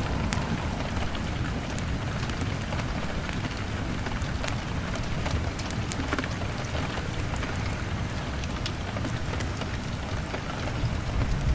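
Steady rain on a window, with scattered sharp ticks and pops from the drops and the crackling fire, over a low rumble that swells near the end.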